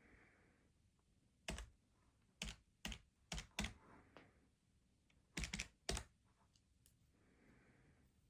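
Keys being tapped in short bursts: about eight sharp keystrokes in three quick groups, with faint soft sounds before and after.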